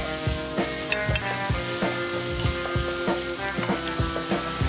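Diced ham and vegetables sizzling in an oiled frying pan as a wooden spatula stirs them, over background music with a steady beat.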